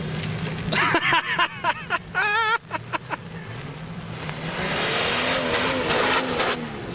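Jeep Wrangler TJ engine running under load as it climbs a steep hill. Onlookers shout and whoop between about one and three seconds in. From about four seconds in, the revs rise with a rushing noise, then drop back near the end.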